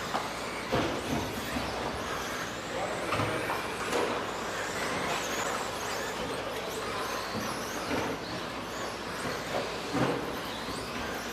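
Several radio-controlled 2WD stadium trucks with 13.5-turn electric motors racing: motor whine rising and falling as they speed up and slow down, with several sharp knocks from landings and bumps.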